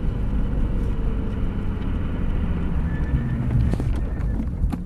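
Porsche GT3 RS flat-six engine running at low revs, heard from inside the cabin as the car slows, over a steady low rumble of road noise. There are a couple of faint clicks near the end.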